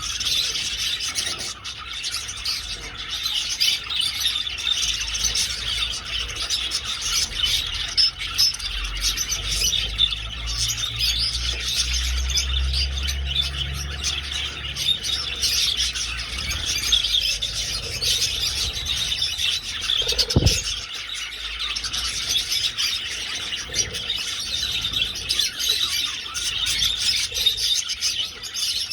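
A flock of budgerigars chattering and chirping without pause. A low rumble runs under it for a few seconds in the middle, and there is a single knock about two-thirds of the way through.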